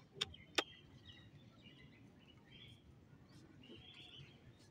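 Quiet outdoor ambience with faint, distant bird chirps, and two sharp clicks within the first second.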